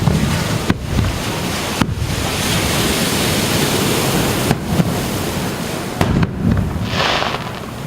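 Aerial fireworks bursting: a string of sharp bangs, with a hissing crackle after some of the bursts, over a steady rumble of surf and wind on the microphone.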